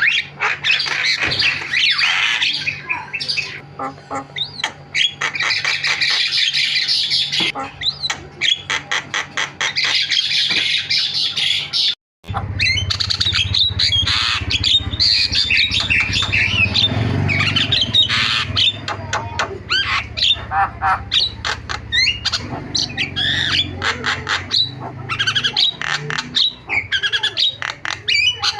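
Javan myna (jalak kebo) chattering nonstop, a busy mix of harsh squawks and whistled notes with a run of rapid stuttered notes. The sound drops out for a moment about twelve seconds in, and a low hum sits under the calls after that.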